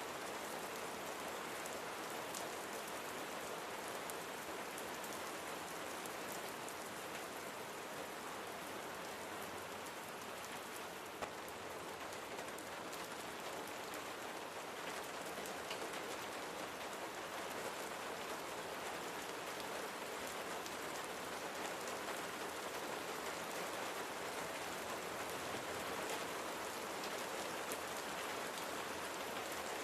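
Steady rain falling, a dense even hiss with many fine individual drop ticks on a surface.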